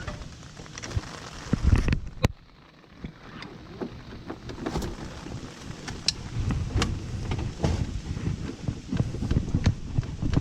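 Rain falling hard, with wind gusting on the microphone, and scattered sharp knocks and clicks throughout, the sharpest about two seconds in.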